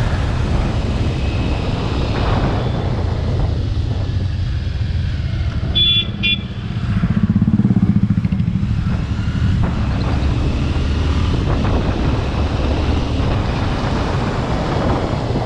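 Bajaj Pulsar RS200 with a modified exhaust running steadily under way, its engine rumble continuous. About six seconds in, a vehicle horn toots twice briefly, and just after that the engine note grows louder for a second or two.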